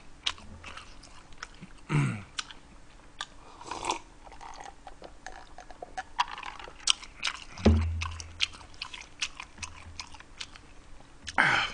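Close-miked chewing and lip-smacking of braised beef short rib with kimchi and rice, with many small wet clicks and a few short hums with a falling pitch.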